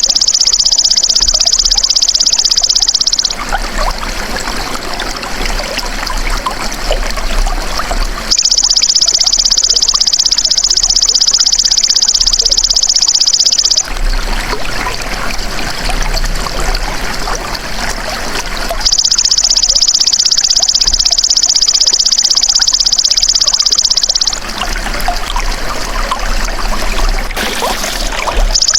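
Belalang emas (golden grasshopper) singing a loud, high, unbroken buzz in bursts of about five seconds, each followed by about five seconds of silence from the insect, three times over and starting again at the very end. Trickling water runs under it throughout.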